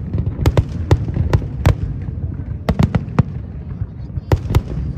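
Fireworks display: aerial shells bursting in an irregular string of sharp bangs, some in quick pairs, over a steady low rumble.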